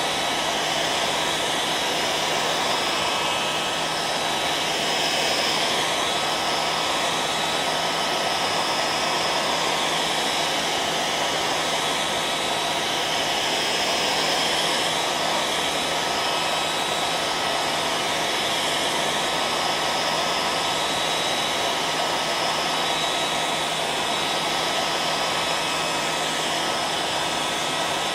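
Hair dryer running continuously: a steady airy whoosh with a constant thin whine and a low motor hum, unchanging throughout.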